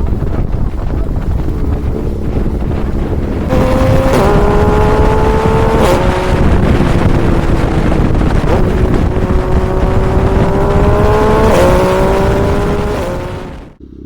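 A vehicle engine, most likely a motorcycle on the move, pulling steadily with its pitch climbing slowly and dipping at a few gear changes, over heavy wind rush. It fades out near the end.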